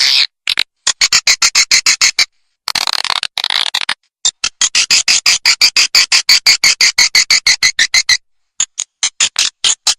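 Swiftlet call recording used as a lure for swiftlet nesting houses: rapid, even trains of high chirps, about ten a second, breaking off briefly twice.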